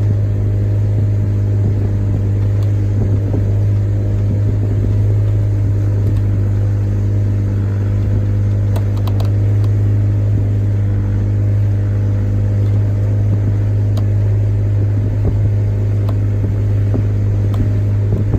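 Speedboat engine running steadily under way, a loud even drone with a strong low hum.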